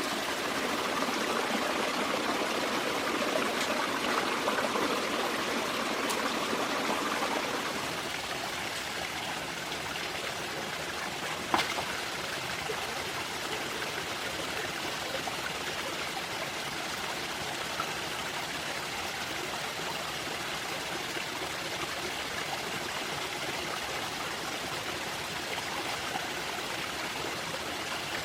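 Stream water flowing steadily, a little fuller for the first several seconds, with a single sharp knock about halfway through.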